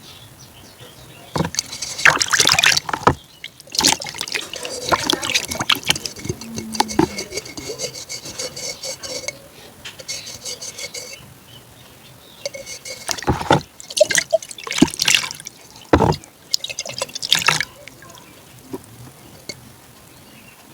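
Close-miked ASMR eating of ice cream: bursts of crunchy bites and crackling with wet mouth sounds, in several clusters separated by quieter pauses.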